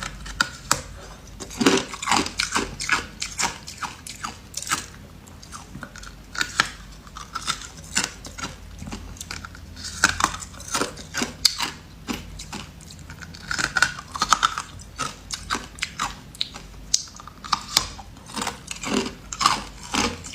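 Ice being bitten and chewed: repeated sharp crunches and cracks of hard ice between the teeth, coming in irregular clusters.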